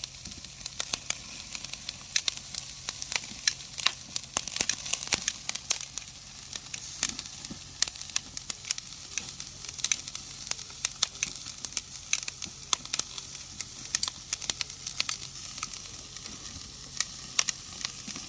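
Black pork belly sizzling on a grill over a wood-and-charcoal fire: a steady hiss with frequent sharp pops and crackles throughout.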